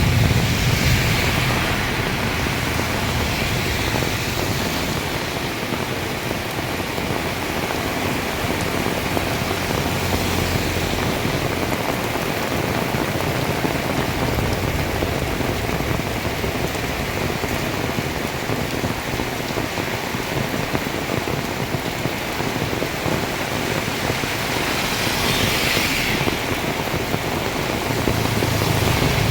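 Heavy rain pouring steadily. A vehicle's engine hum and tyre hiss on the wet road rise near the start and again near the end.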